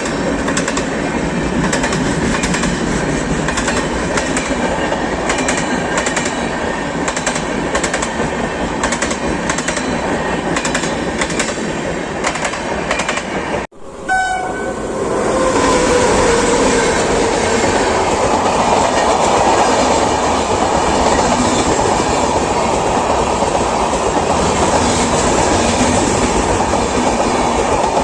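A train running on rails: the wheels click over rail joints in a steady clatter. After a sudden cut about halfway through, a second train runs with a steady rumble and a brief horn note just after the cut.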